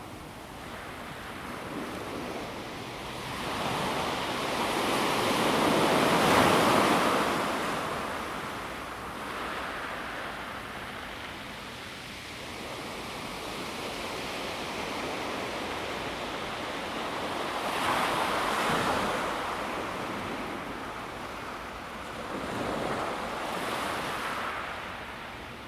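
Calm sea waves breaking and washing over a pebble beach in slow swells: the biggest wave about six seconds in, another around eighteen seconds, and a smaller one near the end.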